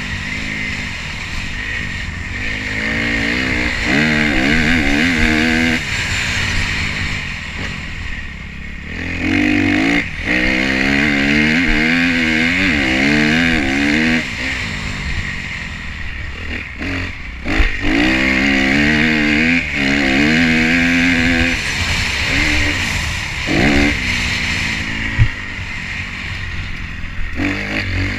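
2012 Kawasaki KX250F's single-cylinder four-stroke engine revving up and down under throttle while being ridden, with a few sharp knocks, its crankshaft binding on the way to seizing.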